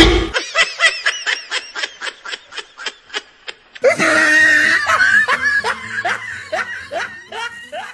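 Snickering laughter: a quick run of short 'heh' sounds, about five a second, then from about four seconds in a fuller, louder laugh with falling pitch.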